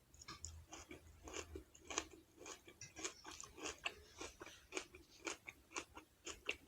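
A person chewing a mouthful of stuffed bok choy leaf with a ground beef, rice and kimchi filling, close to the microphone: an irregular run of faint short mouth clicks, about two or three a second.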